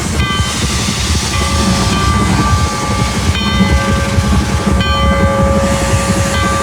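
Oil-fired steam locomotive at the railroad, a steady low rumble and hiss, with a high tone of several pitches that comes and goes a few times.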